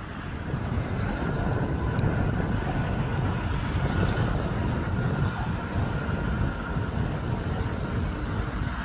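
Freight train rolling past with a steady low rumble, a faint thin high tone running through it.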